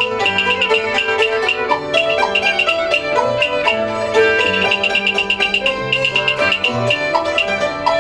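Instrumental interlude of Cantonese opera accompaniment: a busy run of quick struck or plucked string notes over bowed strings and low held notes.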